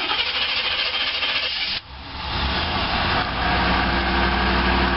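A steady rushing hiss that cuts off abruptly about two seconds in. A 1989 Chevrolet Caprice Classic's fuel-injected 5.0 V8 then comes up and idles steadily.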